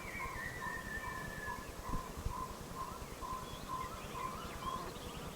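Forest birds calling: one bird repeats a short, even note about three times a second throughout, while another gives a long, slightly falling whistle in the first couple of seconds, followed by scattered high chirps.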